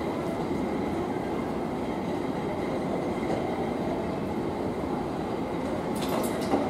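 Steady running noise inside a moving train car: an even rumble with a faint high whine, and a few light clicks near the end.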